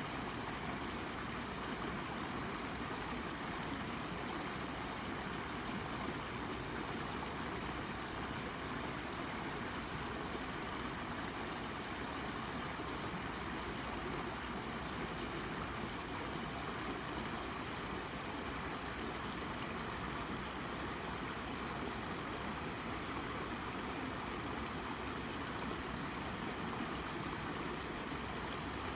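Babbling brook: water running steadily over and around a rock, a continuous trickling and gurgling.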